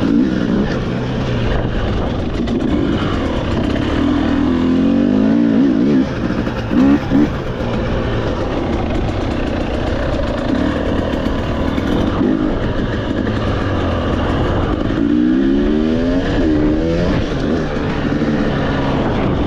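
Dirt bike engine running while being ridden on a trail, revving up and easing off repeatedly, with several rising pitch sweeps as the throttle opens, clearest about five seconds in and again about fifteen seconds in.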